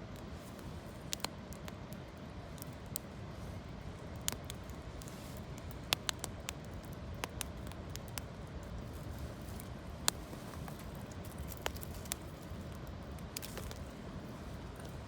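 Campfire of locally gathered branches crackling, with scattered sharp pops over a steady rushing background.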